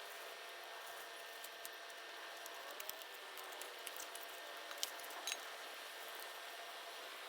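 Wood fire on a bonfire stand crackling: a steady hiss with scattered sharp pops, two louder ones about five seconds in.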